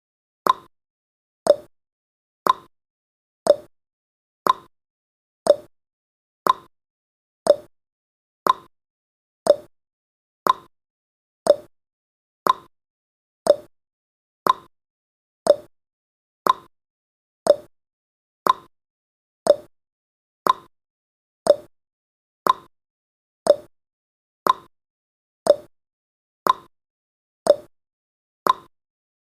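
Countdown timer's clock-tick sound effect: one short tick every second, evenly spaced, seeming to alternate slightly higher and lower like a tick-tock.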